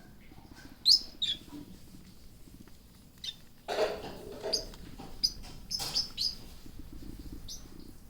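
Pet love birds (small parrots) giving short, high chirps at irregular intervals, with a longer, harsher squawk about four seconds in.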